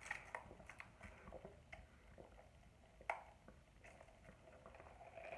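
Faint chewing and mouth sounds while eating, with scattered small clicks and a slightly louder click about three seconds in.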